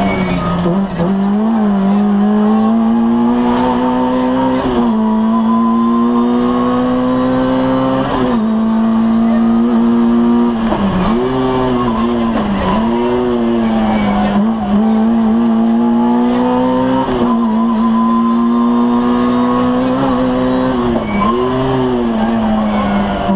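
Citroën AX GTI rally car's 1.4-litre four-cylinder engine at high revs, heard from inside the cabin. Its pitch climbs slowly through each gear and falls sharply at the gear changes, several times, with a few short dips that recover at once.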